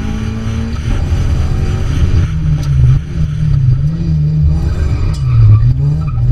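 Fiat Cinquecento rally car's engine heard onboard, revving up and down as it accelerates and lifts off; its pitch rises and falls several times in a wavy pattern.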